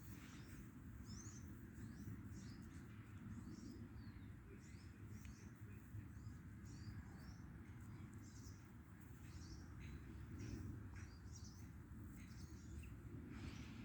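Small birds chirping faintly, with many short high chirps repeating throughout over a steady low rumble.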